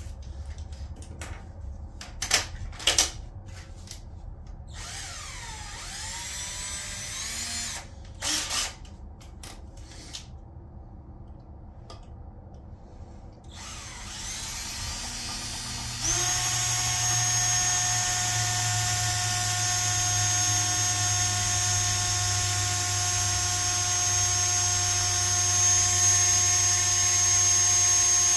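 Electric drill turning a small left-handed bit into a stuck stud in a Honda B18 engine block, to back the stud out. After a few handling clicks it spins up briefly about five seconds in, then from the middle runs as a steady whine for about twelve seconds before stopping at the end.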